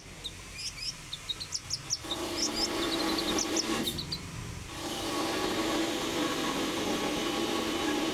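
Konin, a small songbird, chirping a quick series of short, high calls in the first half. A steady rushing noise with a low hum comes in about two seconds in and carries on to the end.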